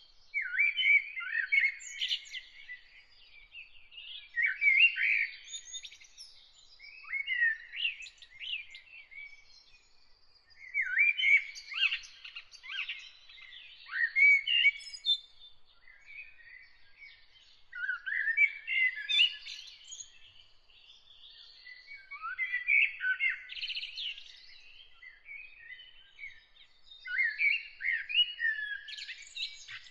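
A songbird singing short, busy phrases of chirps and whistles, one every three to four seconds, with a faint steady high tone behind.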